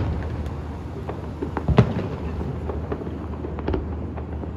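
Aerial fireworks shells bursting: one loud bang a little under two seconds in and a weaker one near the end, with scattered smaller pops and crackles between, over a steady low rumble.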